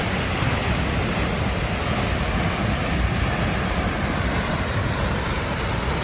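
Waterfall rushing: a steady, even hiss of falling water with a low rumble beneath it.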